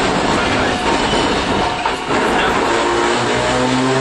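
Running noise heard inside an older Iyotetsu streetcar: wheels on rail with car-body rumble. From about three seconds in, a rising motor whine as the tram picks up speed.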